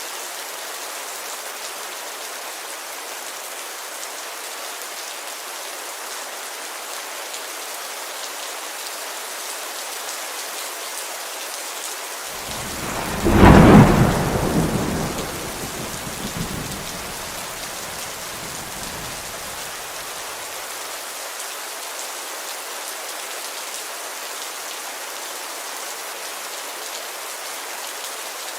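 Heavy rain falling steadily on a window. About 13 seconds in, a sharp clap of thunder breaks out and rumbles away over the next several seconds.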